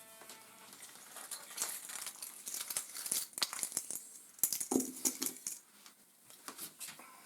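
Packaging and small plastic parts being handled: a run of crinkles, clicks and light taps, with one heavier knock about five seconds in.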